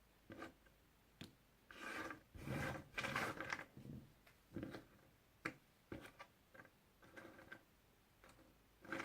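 Jigsaw puzzle pieces being handled: short bouts of pieces rubbing and scraping against each other and the surface, with light clicks, busiest about two to four seconds in.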